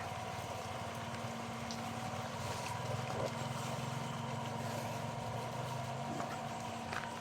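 Steady hum of a motor or engine running, with a lower drone that swells through the middle.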